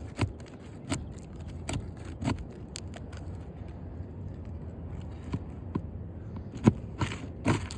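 Short metallic clicks and scrapes of a hand tool prying at a roofing nail set in asphalt shingles, with a few sharper knocks about a second in, around two seconds and near the end. The nail is overdriven and flush with the shingle, so it is slow to come out.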